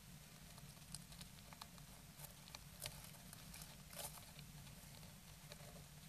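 Faint scattered taps and rustles as a brooding great tit shifts on its nest of dry grass, over a steady low hum.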